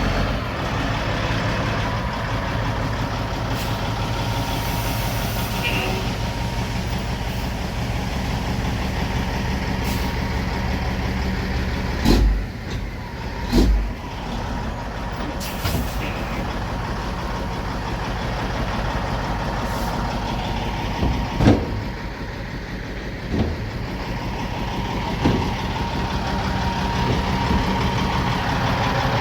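Caterpillar 3406 diesel engine of a dump truck running steadily, with several sharp knocks or bangs breaking in, two close together midway and three more later.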